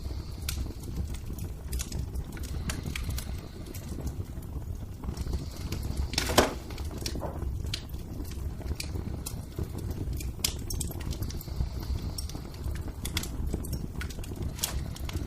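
Fire in a fireplace crackling, with scattered pops over a steady low rumble and one louder pop about six seconds in.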